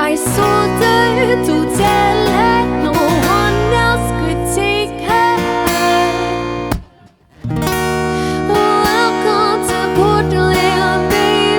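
Live band playing an instrumental passage with guitar to the fore, its lead lines bending in pitch. The whole band stops dead for a moment about seven seconds in, then comes straight back in.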